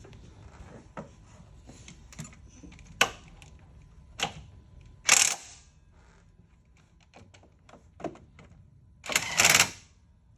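Scattered clicks and knocks of metal parts and tools being handled, with two sharp knocks and two short, loud noisy bursts, the second about half a second long near the end.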